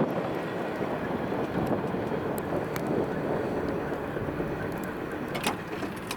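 Intermodal freight train cars rolling past on the mainline with a broad rail rumble and a few sharp clicks, slowly fading as the train moves away.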